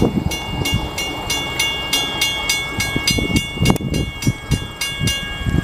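A bell ringing in quick, even strokes, about three a second, over the low rumble of a train on the Strasburg Railroad.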